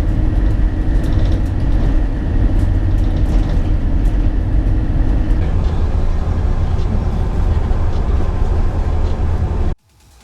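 Steady, loud engine drone heard from inside a passenger aircraft cabin, with a few steady low tones over the rumble. It cuts off abruptly near the end.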